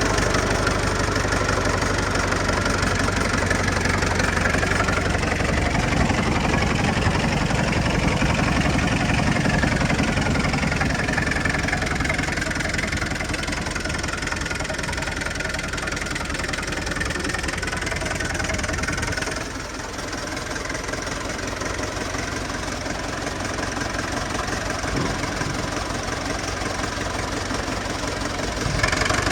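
Old engine-driven air compressor running steadily. It gets a little quieter about two-thirds of the way through.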